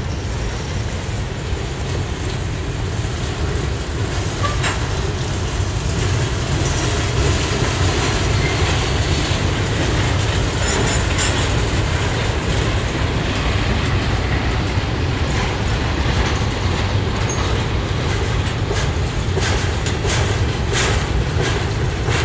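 Freight cars of a passing train, boxcars and covered hoppers, rolling by close up: a steady rumble of steel wheels on the rails with clickety-clack over the rail joints, and sharp clicks that come thicker near the end.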